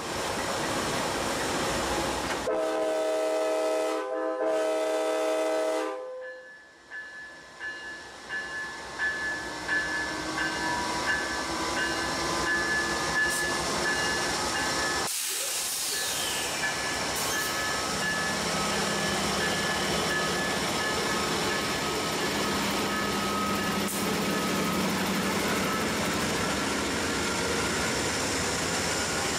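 Passenger diesel locomotive's multi-chime air horn sounding two blasts a few seconds in, the signal of a train starting to move off. Then the train's steady running rumble as it departs.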